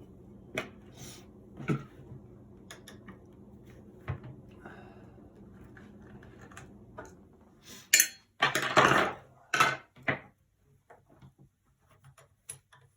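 Metal airsoft gun parts and tools clinking and knocking as the gun is taken apart, with scattered clicks. About eight seconds in comes a louder clatter and scrape with a few sharp knocks.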